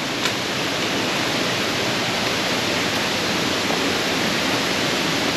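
Steady rush of a waterfall, an even unbroken roar of falling water.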